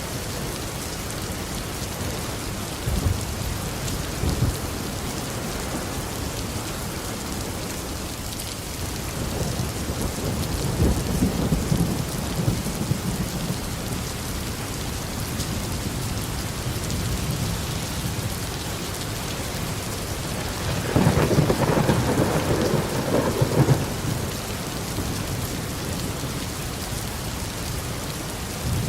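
Steady heavy rain with thunder: low rumbles a few seconds in and again about a third of the way through, and a louder, longer thunder peal about three-quarters of the way in.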